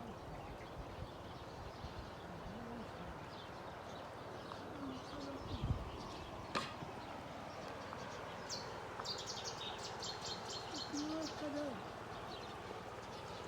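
Steady rush of a flowing river with birds chirping over it, including a rapid chattering call from about nine to twelve seconds in. There is one sharp click about halfway through, and faint distant voices.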